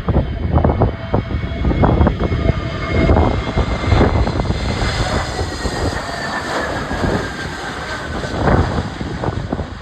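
Airbus A321neo jet engines (CFM LEAP-1A turbofans) running as the airliner passes, their whine falling slowly in pitch over a deep rumble, with wind buffeting the microphone in gusts.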